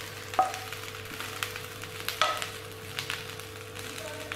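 Cauliflower florets sizzling as they fry in a little oil in a nonstick pan, with a steady crackling hiss. A spatula stirs and scrapes them, knocking sharply against the pan twice. The florets are browned and shrunk, near the end of their frying.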